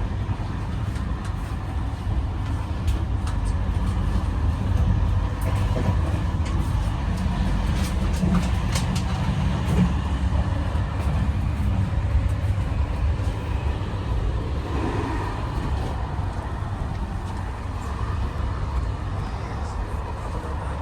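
Steady low rumble of a train, with faint clicks and rattles over it.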